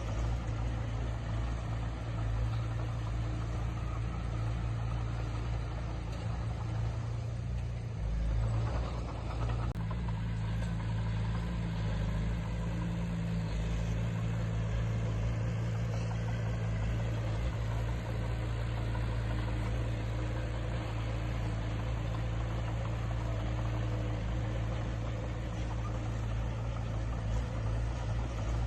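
Diesel engine of heavy earthmoving equipment running steadily, a low drone at a constant pitch.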